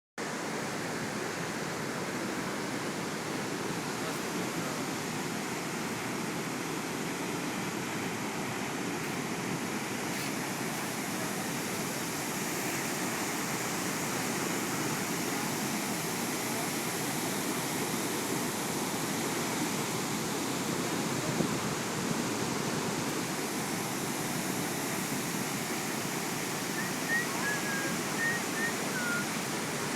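Waterfall: a steady rush of falling water, even throughout, with a few short high chirps near the end.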